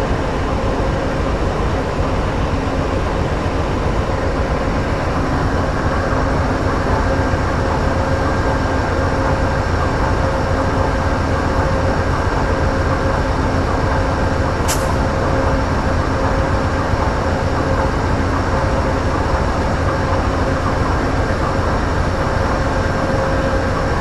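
Amtrak diesel locomotive running steadily at a standstill, a loud even engine drone with a steady hum on top. A single short click sounds about fifteen seconds in.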